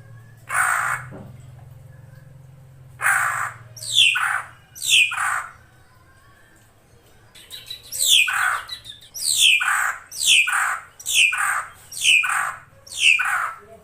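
Female drongo calling: a series of harsh calls, each sweeping down in pitch. A few come scattered early on, then a steady run of about one call a second in the second half. This is the female's call, used as a lure to set male drongos calling.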